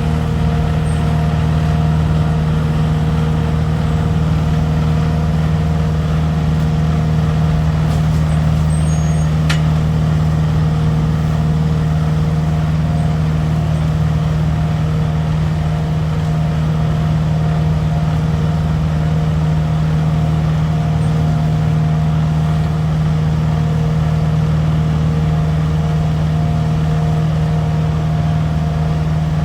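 Leaf collection truck's engine running steadily at a constant speed, a loud, even hum that never changes pitch.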